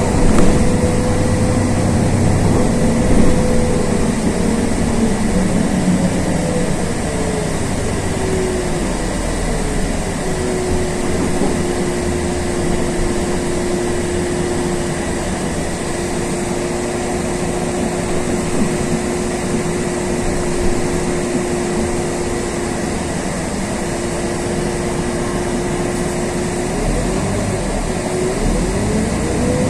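Inside the cabin of a LiAZ 6213.22 articulated diesel city bus on the move: the drivetrain runs with a steady rumble and a whine. The whine drops in pitch about a third of the way in as the bus eases off, holds level for a long stretch, and starts rising again near the end as the bus picks up speed.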